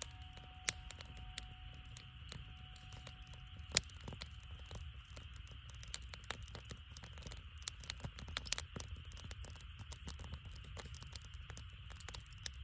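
Wood campfire crackling, with irregular sharp pops and snaps, the loudest about four seconds in, over a steady low rumble.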